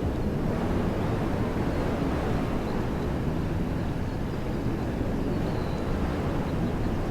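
Wind blowing through woodland trees, a steady low rushing noise with a deep rumble that never lets up.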